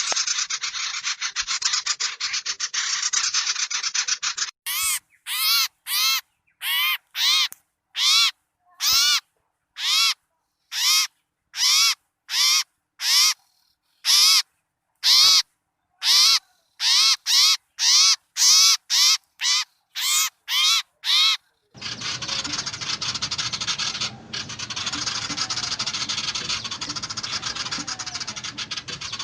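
Bird-lure recording of small birds: a dense, noisy mass of chattering, then a long run of about two dozen separate harsh calls, one to two a second, then the dense chattering returns about three quarters of the way through.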